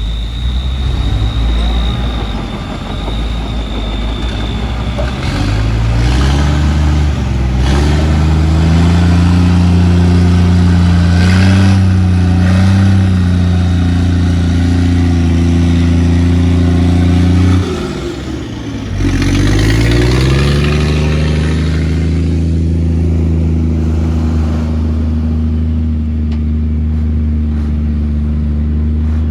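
Heavy diesel engine of a bulldozer or dump truck revving up and running hard at high speed. About 18 seconds in it drops off sharply, then picks up again and settles to a steady, somewhat lower speed.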